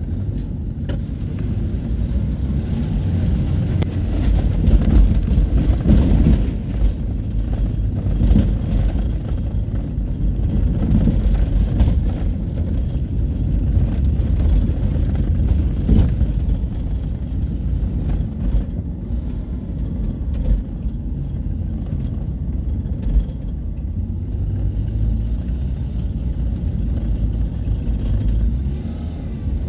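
Highway traffic of trucks and trailers passing, a continuous heavy engine and tyre rumble that swells a few seconds in, with a few short knocks.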